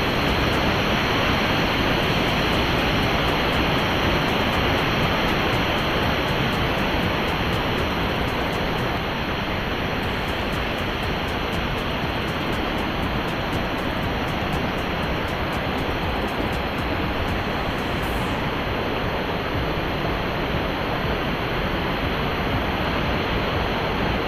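Water rushing steadily down a multi-tiered cascade of small waterfalls into natural pools, a constant, even rush.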